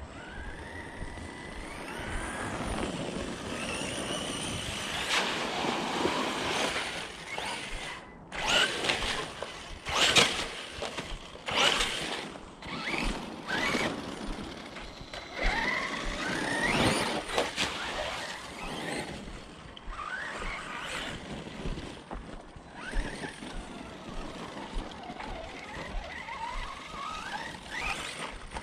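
Arrma Notorious 6S RC truck with a 1250kv Spektrum brushless motor, its motor whine rising and falling again and again with the throttle. Several sharp knocks and clatters come about a third of the way in.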